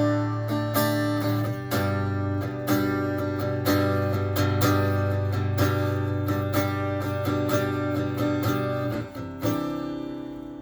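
Fender Acoustasonic Stratocaster set to its modelled walnut small-body, short-scale acoustic voice, with chords picked and strummed in accents about once a second. Near the end a last chord is struck and left to ring out and fade.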